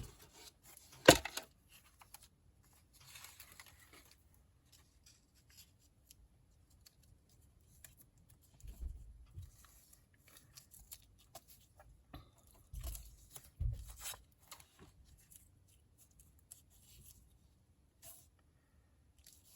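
Paper being handled: cut-out paper pieces rustling and sliding, with a sharp tap about a second in and a few soft bumps later on.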